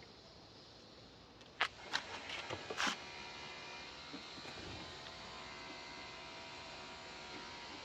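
A few sharp clicks and clinks of parts being handled, about one and a half to three seconds in, then a faint steady hum.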